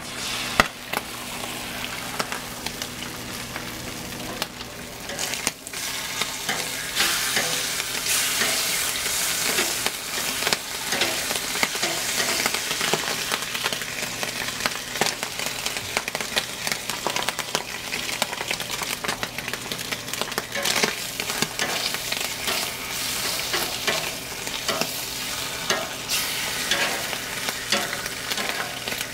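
Turkey bacon, turkey slices and a fried egg sizzling on a Blackstone flat-top griddle, a steady frying hiss that grows louder after a few seconds and eases near the end. Occasional short clicks and scrapes sound over it.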